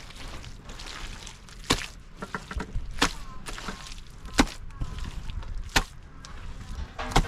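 Regular sharp strikes of a hand tool, five blows about one every second and a half, like chopping or hacking.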